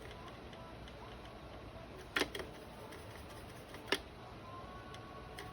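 Two sharp taps, a little under two seconds apart, over a faint steady background hum.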